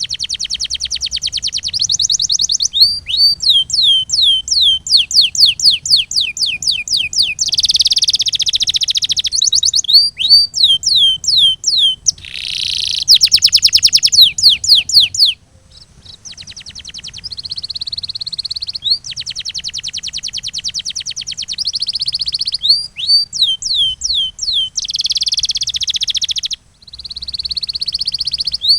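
Domestic canary singing a continuous song: fast rolling trills alternate with runs of repeated down-sliding whistled notes, about two to three a second. The song breaks off briefly about halfway through and again near the end.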